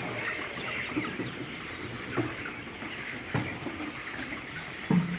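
A flock of broiler chickens calling and clucking, many short overlapping calls, with a few sudden knocks, the loudest near the end.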